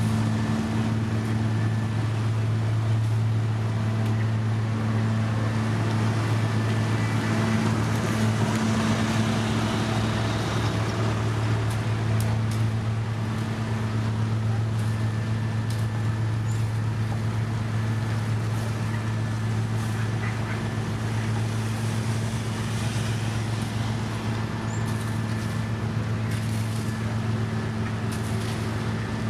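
Heavy construction machine's diesel engine running steadily at a constant pitch, with faint scattered clicks and clatter over it.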